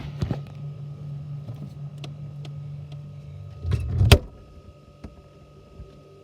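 A low steady hum with a few small clicks and knocks, then a refrigerator door thudding shut about four seconds in. After that the hum drops out, leaving only a faint steady tone.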